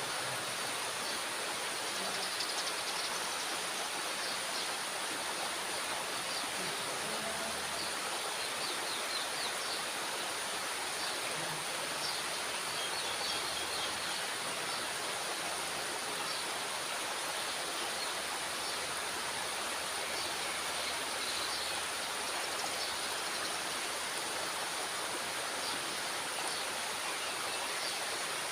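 Steady rushing of water pouring through a dam's spillway gate.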